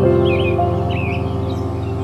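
American robin singing short warbled phrases, three of them in two seconds, over louder background music with sustained chords.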